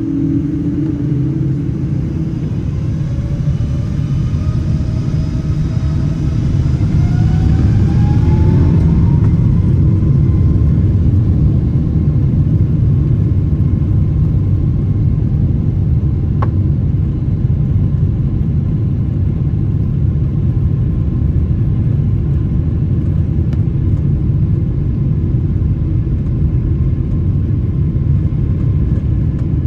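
Boeing 777 engines heard from inside the cabin on takeoff: a rising whine climbs over the first ten seconds or so as the engines spool up to takeoff thrust, then settles into a steady loud rumble of the takeoff roll and climb. A single brief click about sixteen seconds in.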